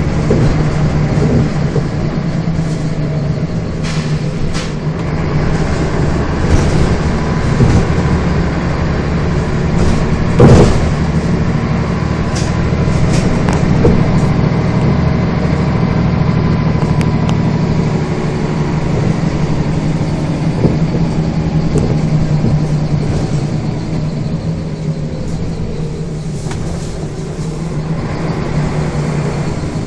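Scania bus engine running steadily as the bus drives, with small rattles and one sharp knock about ten seconds in.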